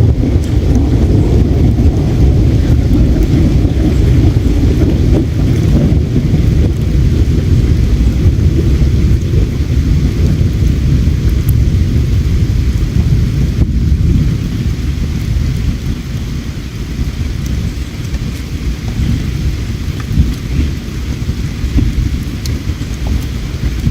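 A deep rumbling rush of flowing river water, louder for the first half and easing off about fourteen seconds in, with a couple of faint campfire crackles.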